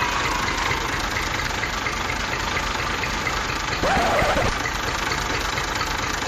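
Small motor of a DIY toy tractor running steadily with a buzzing rattle. A short pitched sound cuts in briefly about four seconds in.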